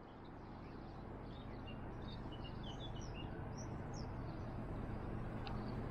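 Small birds chirping faintly in a scatter of short calls over a steady outdoor background hiss and low hum. The background slowly grows louder.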